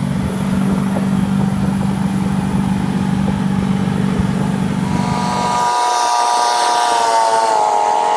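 Nissan Patrol 4x4 engine running with a steady low drone that drops away a little after five seconds in. From about five seconds a higher engine note takes over, slowly falling in pitch.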